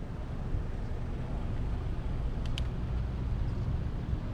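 Steady low rumble of wind and road noise on a riding bicycle's microphone, with a brief sharp high tick about two and a half seconds in.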